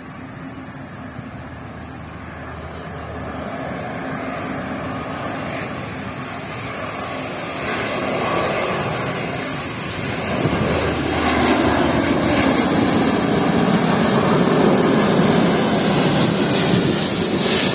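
Airliner on final approach passing low overhead, its engine noise a broad rush that swells steadily louder and is loudest in the last few seconds.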